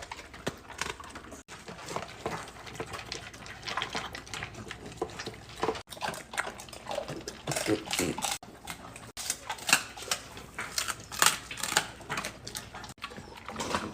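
Dogs eating from their bowls: irregular chewing, lapping and clicks against the bowls.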